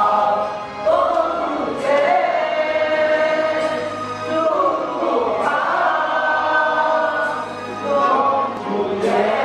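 Music: a choir singing long held notes.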